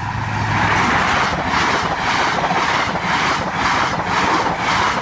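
A Class 43-powered High Speed Train passing at speed, with a rhythmic clatter of wheels over rail joints at about two beats a second under a steady rushing noise.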